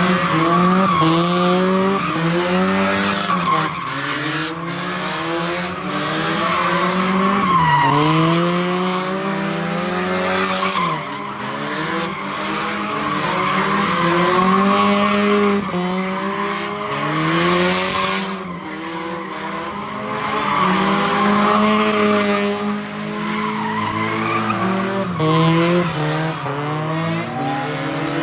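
A car's tires screeching as it spins them at a car meet, its engine revving up and falling back again and again.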